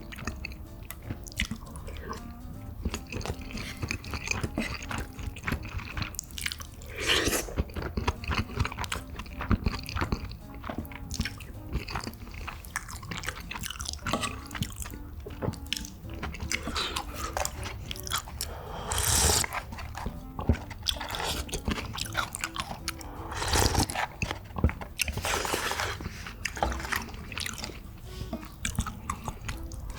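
Close-miked eating sounds: chewing, with many small wet mouth clicks and a few louder noisy bursts now and then.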